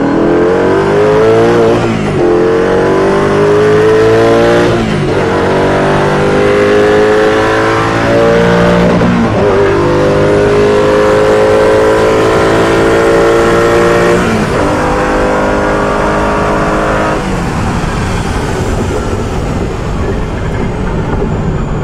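Koenigsegg CCX's twin-supercharged V8 at full throttle, heard from inside the car. Its note climbs steadily in each gear, with four upshifts that each drop the pitch, carrying it from 2nd to 6th gear. Near the end the engine note fades, leaving steady wind and road noise at around 300 km/h.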